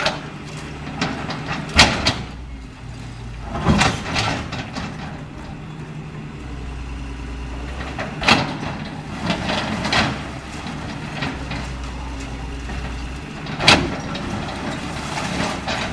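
CAT 325L hydraulic excavator's diesel engine running under changing load, its low drone stepping up and down. Four loud crashes, about 2, 4, 8 and 14 seconds in, with smaller knocks between them: building material breaking and falling during demolition.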